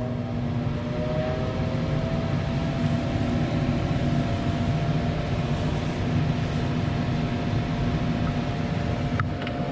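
Gas furnace starting its heating cycle: the draft inducer fan spins up with a slightly rising hum that settles into a steady tone over a rush of air, then runs steadily. A single click sounds near the end.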